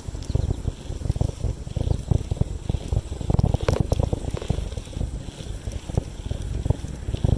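Wind buffeting the microphone of a camera riding along on a bicycle: a gusty low rumble with scattered sharp clicks and rattles.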